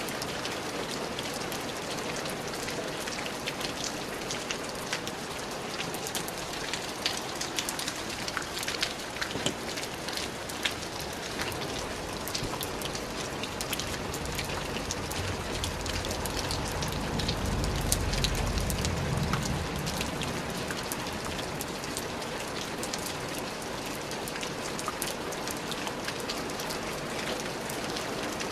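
Steady rain with many individual drops pattering onto a hard surface. A low rumble swells and fades about halfway through.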